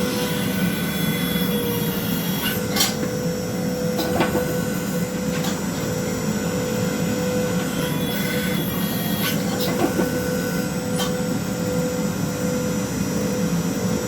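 Steady machine hum of a home-built forging press running, a constant drone with a steady tone, broken by a few short knocks.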